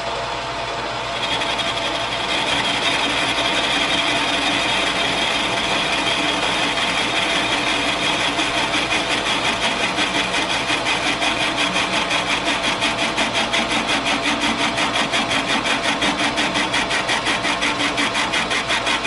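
Metal lathe turning down the outside diameter of a steel feed plate on a light cut of about ten thousandths. The cutting sound comes in about a second in and pulses evenly, about five times a second, through the second half. This is a cut that does not fully clean up the surface.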